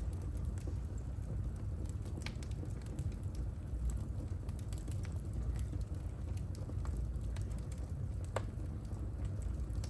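Wood fire burning in a home fireplace: a steady low rumble with scattered sharp crackles and pops, two of them standing out, a little after two seconds and near the eight-second mark.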